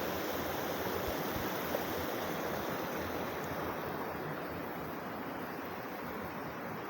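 Mountain river rushing in a steady, even noise, swollen and muddy after heavy rain and hail, growing slightly fainter towards the end.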